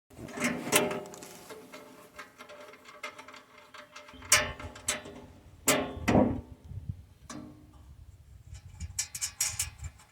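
Scattered metallic clicks and knocks of a hand tool working the screw on a bandsaw mill's band wheel door latch, with a small cluster of quick clicks near the end.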